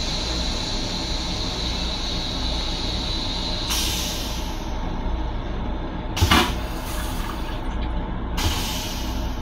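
Steady rumble of a Long Island Rail Road M7 electric railcar, heard from inside its small restroom. A hiss over the rumble cuts off a little under four seconds in. A sharp knock about six seconds in is the loudest sound, and a smaller knock follows near the end.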